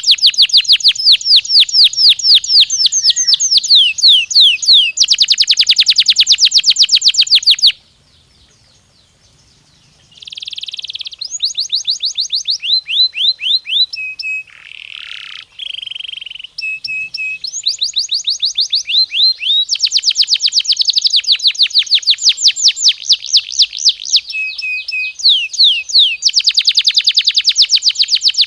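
Domestic canary singing: long rolls of rapid, repeated sweeping notes, several per second, broken by a pause of about two seconds around eight seconds in, then varied phrases with short steady whistles before the fast rolls start again.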